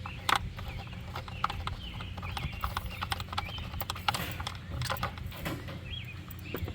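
Irregular light clicks and knocks of hands and tools working at the air cleaner under the hood, as it is being taken off.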